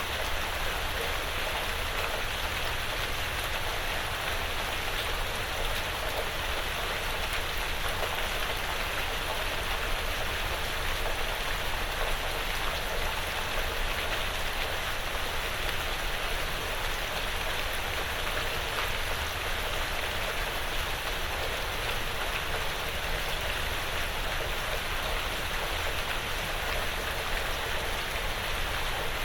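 Steady light rain pattering on a porch roof and the surrounding woods, an even hiss of drops with no breaks.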